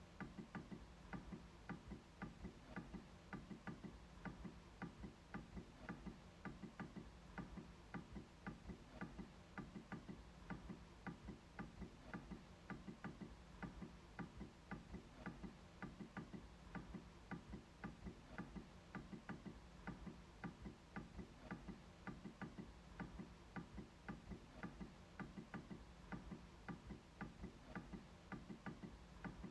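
MacBook trackpad clicking over and over in a faint, steady run of clicks, a few a second.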